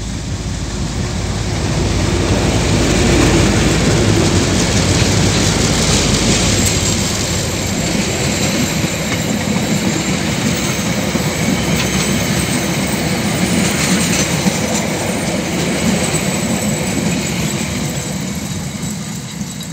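DA class diesel-electric locomotives passing close under power, loudest a few seconds in as the engines go by. Red passenger carriages follow, rolling past with a steady rumble of wheels on rail and occasional clicks, fading near the end.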